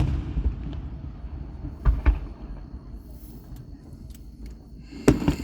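Firework bangs, each followed by a low rumble: one right at the start, one about two seconds in, and a quick pair near the end.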